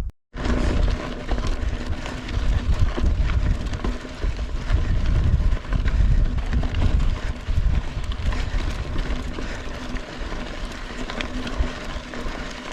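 Heavy wind buffeting the microphone during a mountain-bike ride: a loud, low, gusting rumble with scattered clicks and rattles. It starts abruptly just after a short dropout.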